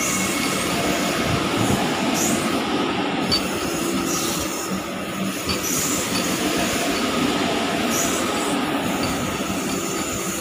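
Vande Bharat Express electric multiple-unit train rolling slowly along a station platform: a steady rumble of wheels and running gear with faint steady humming tones.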